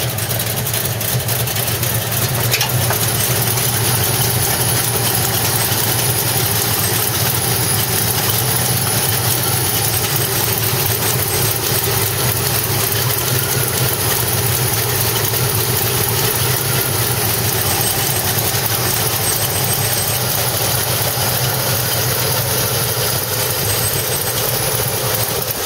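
1964 Ford Fairlane's V8 engine idling steadily with the hood open.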